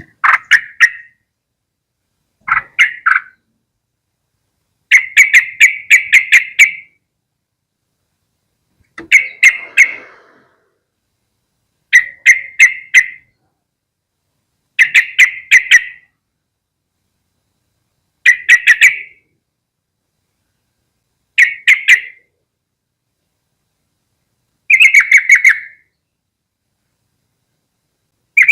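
Yellow-vented bulbul (trucukan) calling in short bursts of rapid chattering notes, one burst about every three seconds.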